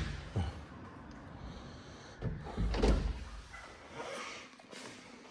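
A window being opened and moved. There are a few short knocks and handling noises, the loudest about two and a half to three seconds in.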